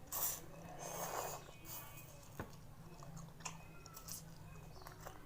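Chewing and biting on bakso tendon meatballs, with irregular wet mouth noises and a few sharp clicks.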